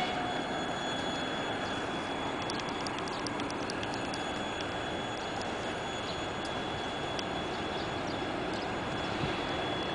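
Steady rumbling noise of a train still out of view, with a thin high steady tone over it and scattered faint ticks a few seconds in.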